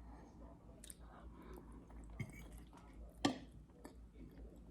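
Close-miked chewing and wet mouth sounds of someone eating, with scattered small clicks and one sharper click about three seconds in.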